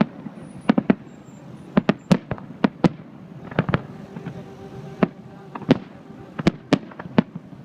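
Fireworks display going off: an irregular series of sharp bangs, a few each second.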